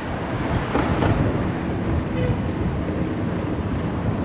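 Steady rolling rumble of a scooter's wheels riding over city pavement.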